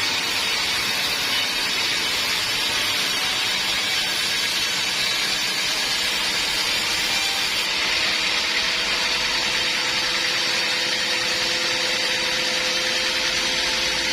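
Sawmill bandsaw running steadily: a constant machine hiss with a faint hum beneath it.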